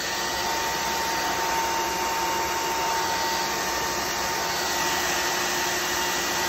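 Roidmi Neo cordless wet and dry vacuum running its self-cleaning cycle in the base: a steady motor rush with a constant high tone.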